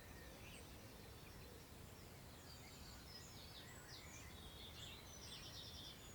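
Faint birdsong from small songbirds: scattered chirps and short phrases, busiest in the second half, with a quick rattling trill near the end. Under it is a low rumble of wind.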